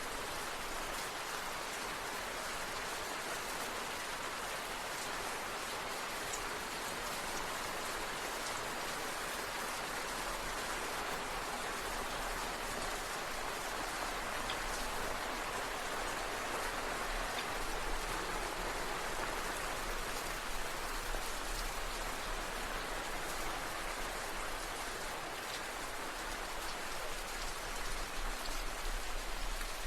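Steady rain falling, an even hiss of many drops pattering on surfaces, a little heavier in the second half.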